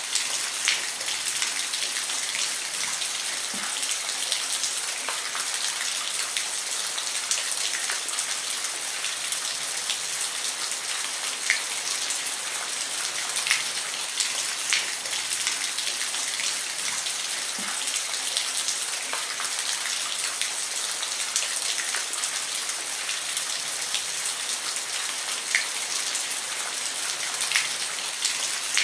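Steady rain falling on a roof, a constant hiss with scattered louder individual drops ticking through it.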